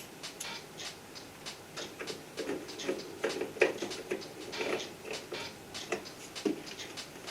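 Irregular light clicks and knocks, as of tools and small parts being handled while working on an air conditioner, with a sharper knock a little past halfway.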